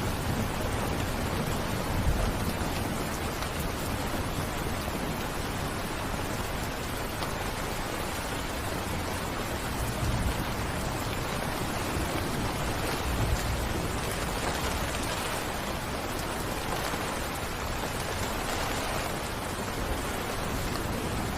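Steady rain falling, an even hiss of many drops, with a few brief low rumbles rising out of it about two, ten and thirteen seconds in.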